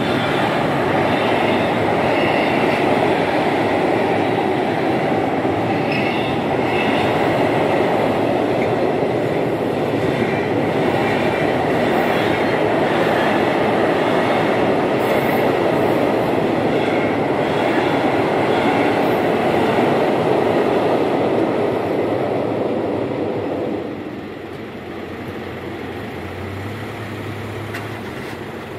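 Freight train of container wagons rolling past over a steel truss bridge, a steady loud rumble with wheel clatter and faint squeal. About 24 s in the train clears and the noise drops off, followed by a brief low hum.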